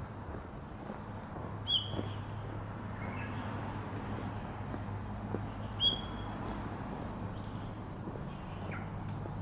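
A bird giving a short, sharp high call twice, about four seconds apart, over a steady low hum.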